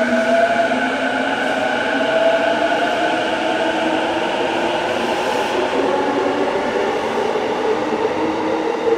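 JR E233-series electric train pulling out of the station, its motors whining in several slowly rising tones as it gathers speed over a steady rumble of wheels on rail.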